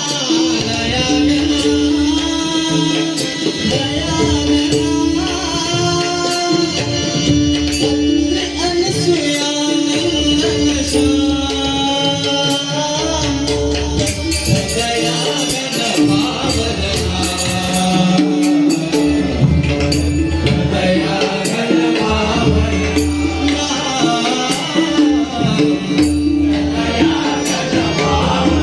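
Marathi devotional abhang music: an instrumental passage with a held drone note, tabla-style drumming and jingling hand percussion, with some singing over it.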